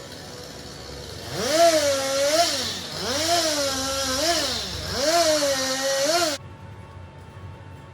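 Chainsaw engine revved three times: each time it rises quickly to full speed, holds there briefly and drops back. The sound cuts off abruptly near the end.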